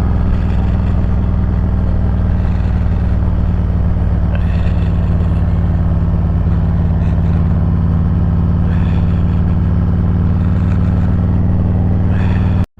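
Harley-Davidson Road Glide Special's V-twin engine running steadily at cruising speed. The sound cuts out for a split second near the end.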